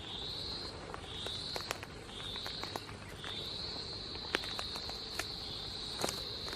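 An insect calls with a high trill, first in short repeated phrases, then unbroken from about three seconds in. Scattered sharp crackles of footsteps sound over it.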